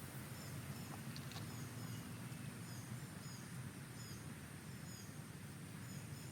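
Small birds chirping: many short, high, down-slurred chirps in quick irregular succession, over a faint low steady rumble.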